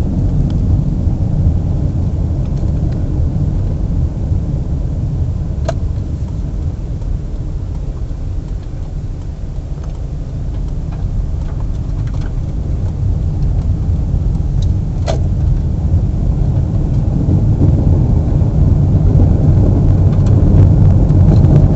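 Car driving along a road, a steady low rumble of engine and road noise that eases a little midway and grows louder toward the end, with a couple of faint ticks.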